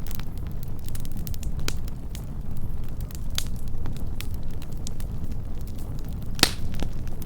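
Wood campfire burning close up: a steady low rumble of flames with scattered sharp crackles and pops, the loudest pop about six and a half seconds in.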